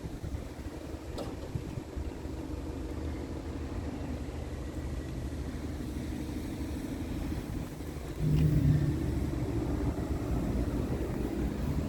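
Scania R tractor unit's diesel engine running with a steady low rumble, growing louder suddenly about eight seconds in as the engine is revved or put under load.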